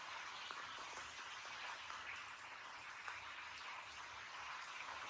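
Steady rain falling, an even hiss with scattered faint drip ticks.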